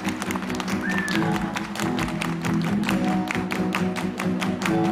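Instrumental break of a live pop song: sustained chords under a steady, evenly spaced percussive beat, with no singing.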